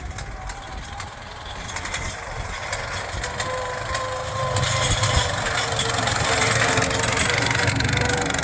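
A vehicle engine running and growing steadily louder, with a faint steady whine over the rumble.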